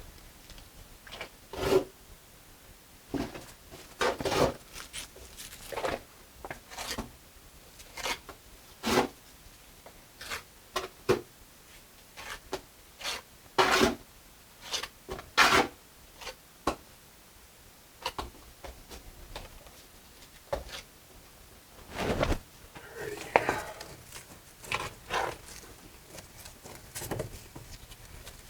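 Mason's trowel scraping and working mortar against brick in many short, irregular strokes.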